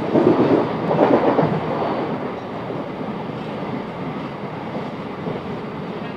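Class 707 Desiro electric multiple unit running between stations, heard from inside the carriage: a steady rumble of wheels on rail, loudest in the first second or so, then settling.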